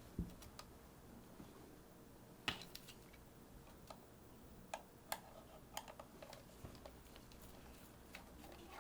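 Faint, scattered small clicks and taps of hand work on the Sony HVR-DR60 recorder's casing as it is taken apart, about a dozen at uneven intervals, the loudest just at the start.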